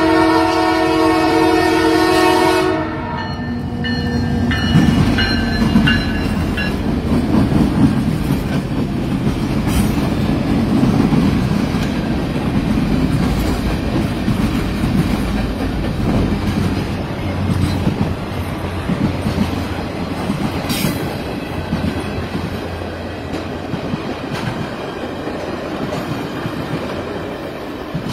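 Locomotive horn sounding one long, multi-note blast for about three seconds, cut off sharply. Then the train rumbles and clatters past on the rails, slowly fading.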